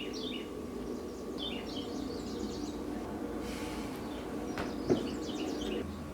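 Songbirds chirping in short, quick phrases over a steady low hum, with a single sharp click about five seconds in.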